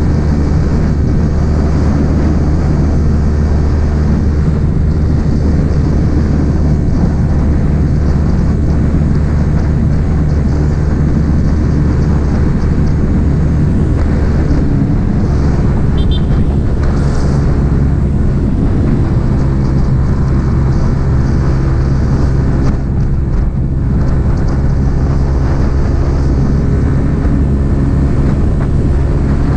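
Yamaha XSR 155's single-cylinder engine running through an M4 aftermarket exhaust while riding, a steady engine note that shifts in pitch about halfway through and dips briefly near the end.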